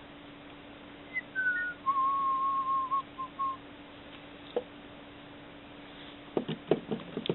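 Whistling: two short notes dropping in pitch, then one long even whistle held for about a second, and two short notes after it. A few soft knocks follow near the end.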